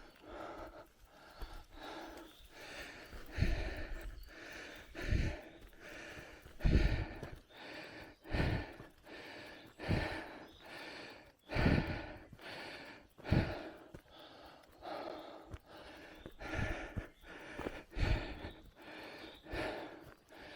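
A cyclist's heavy, rhythmic breathing from the effort of pedalling, about one loud breath every second or so, some with a low thud of air or knocks underneath.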